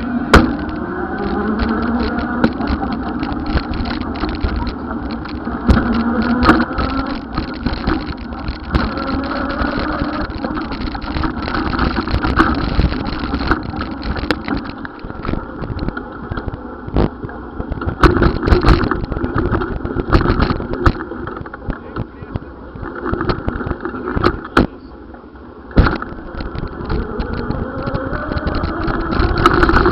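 Motor vehicle engines running, with an engine's pitch rising as it speeds up near the start and again near the end, over steady road noise and frequent short knocks and rattles.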